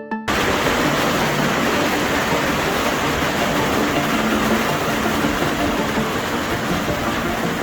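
Loud, steady rush of floodwater in a swollen river, cutting in suddenly just after the start.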